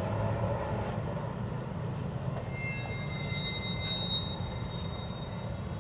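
High-pitched whistling squeals from a railway marshalling yard as wagons are sorted. Thin tones come and go from about halfway through, over a steady rumble of strong wind on the microphone.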